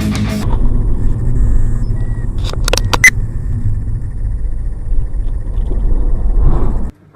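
Car driving, a steady low rumble of road and engine noise, with a few sharp knocks about two and a half to three seconds in. The sound cuts off abruptly just before the end.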